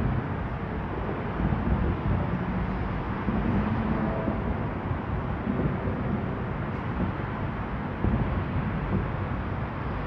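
Distant fireworks display: a steady low rumble of far-off shell bursts, with a few louder thuds standing out, about a second and a half in and again about eight seconds in.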